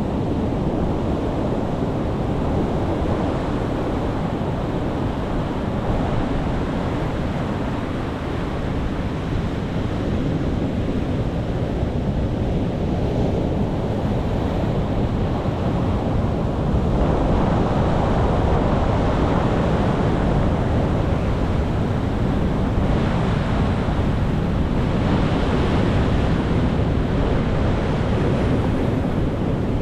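Ocean surf: waves breaking and washing in as one continuous rush of water, swelling louder a little past halfway.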